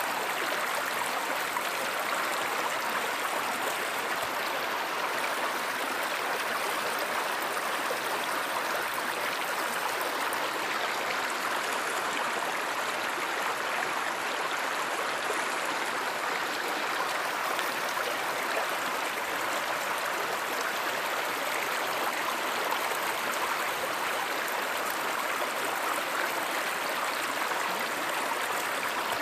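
Steady flowing water of a river or stream, an even rushing with no breaks.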